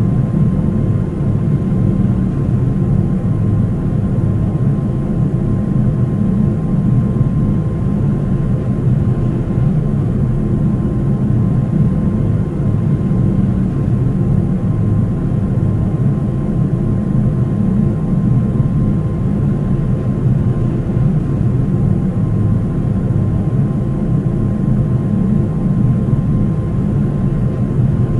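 Steady cabin noise inside a Boeing 737-800 with CFM56 turbofans, heard as a low rumble of engines and airflow with a thin steady whine above it, as the airliner descends toward landing.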